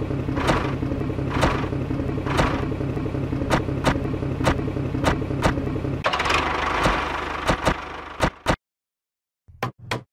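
Miniature DIY tractor engine running with a steady low hum and sharp knocks about once a second. About six seconds in the hum drops away, and the sound stops a couple of seconds later. A few short clicks follow near the end.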